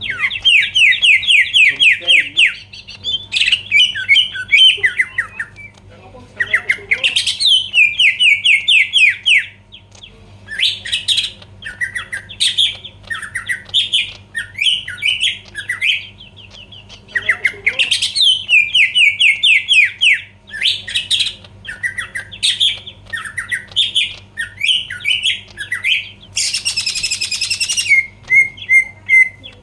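Cucak ijo (green leafbird) singing loudly and almost without pause in fast, varied phrases of rapidly repeated trilled notes. Near the end there is a brief harsh, rasping call.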